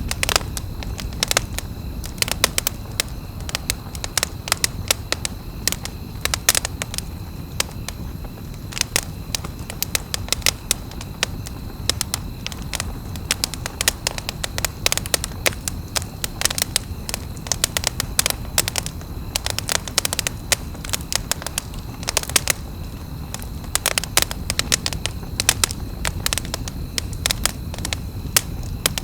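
Campfire crackling: a dense, irregular run of sharp pops and snaps from burning wood over a steady low rumble of the flames.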